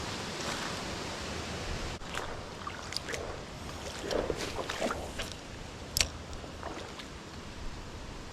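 Creek water rushing over rocks in a steady, even noise, with a few short clicks, the sharpest about six seconds in.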